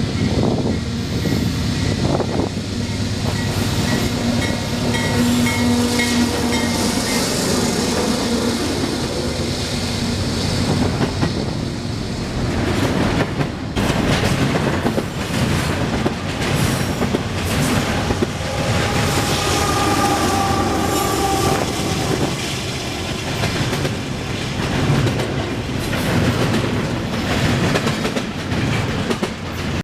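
A train passing at close range, its wheels clattering steadily over the rail joints.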